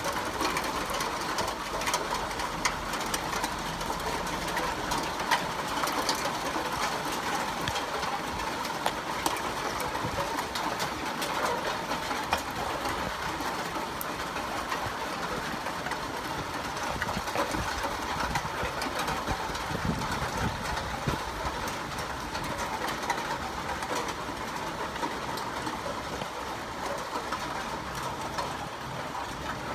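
Steady rain: a dense hiss of falling water, dotted with many sharp drop hits.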